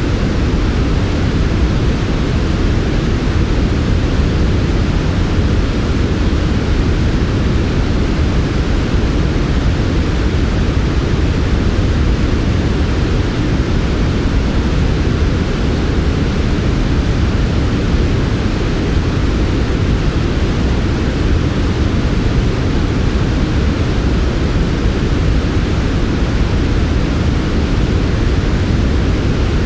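Steady synthetic noise played as a sleep sound, soft and deep: most of it lies in the low range, with only a faint upper hiss, and it stays even and unchanging throughout.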